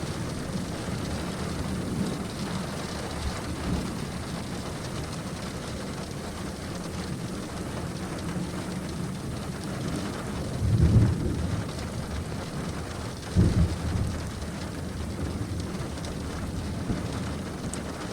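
Thunderstorm: steady rain hiss, with two short low rumbles of thunder about ten and thirteen seconds in.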